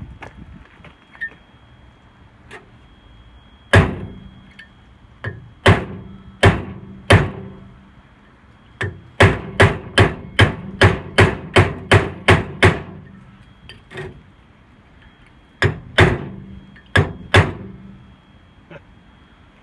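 A hammer striking a steel punch to drive rivets out of a lawn tractor's flywheel ring gear, with metallic clanks that ring on. There are a few spaced blows, then a fast run of about a dozen strikes at roughly three a second, then a few more. The punch is not the right size, so the rivets are slow to come out.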